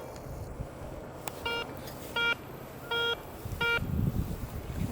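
Garrett ACE 250 metal detector beeping on a buried target as the coil is swept back and forth over it, a short tone about every two-thirds of a second, four times from about a second and a half in. The signal was read as a pop tab or a penny. A low rumble comes in near the end.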